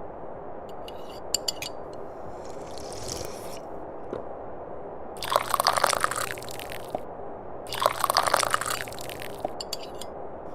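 Tea being slurped from a cup: two long, loud slurping sips in the second half, each lasting about a second and a half. Earlier there is a softer sip and a few small clicks.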